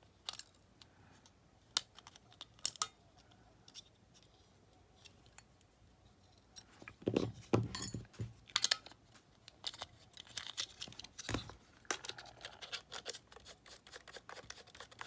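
Scattered sharp clicks, taps and short scrapes of small plastic and metal parts being handled while a Sony Walkman WM-600 battery box is taken apart to refit its fixing pin, growing busier about halfway through.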